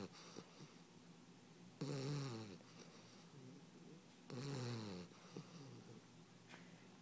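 Bulldog puppy snoring in its sleep: two loud snores about two and a half seconds apart, each falling in pitch, with softer breaths between.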